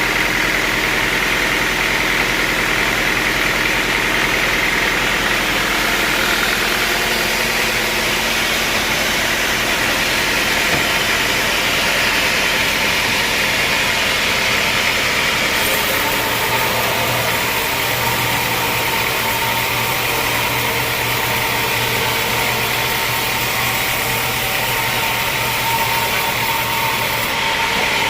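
Sawmill machinery running steadily, a loud engine-like hum with a shift in tone about halfway through.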